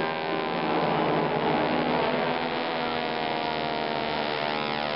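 Aircraft flying past, a steady droning hum with sweeping shifts in tone as it passes.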